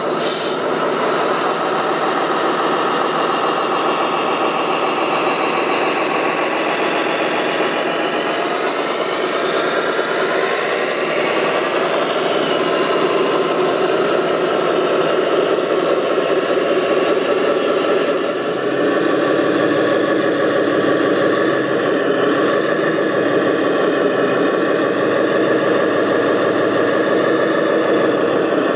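Engine of an RC construction machine running steadily, with a heavier, lower note coming in about two-thirds of the way through.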